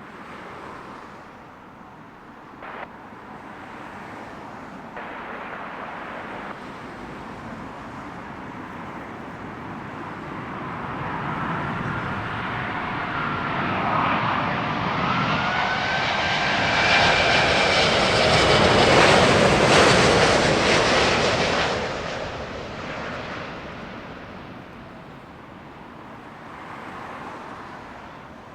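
Jet airliner on final approach passing low overhead: engine noise builds for about ten seconds, peaks with a loud rush and whining tones that drop in pitch as it goes over, then fades away.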